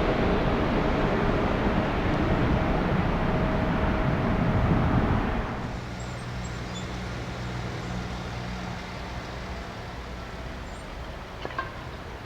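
Jet noise of a departing Boeing 777F freighter, a loud, even rumble that fades slowly. About five seconds in it cuts off abruptly to a much quieter, steady low hum.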